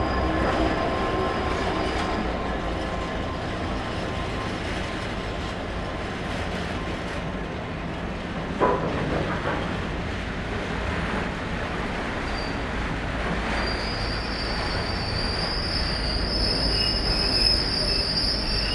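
Freight train rolling past, its wagons rumbling steadily on the rails, with one sharp clank about nine seconds in. About two-thirds of the way through, a high steady wheel squeal sets in and grows louder.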